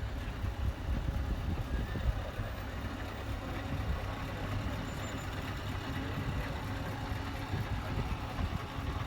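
A heavy truck's diesel engine idling steadily, with indistinct voices in the background.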